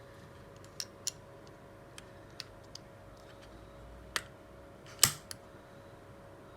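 A string of irregular, sharp little clicks and taps of small hard objects, the loudest about five seconds in, over a faint steady hum.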